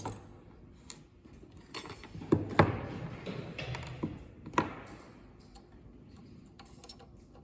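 Sharp metal clicks and knocks with light rattling as tooling parts and hand tools are handled on a semi-automatic soldering machine. The loudest knocks come about two to three seconds in and another near four and a half seconds, followed by fainter ticks.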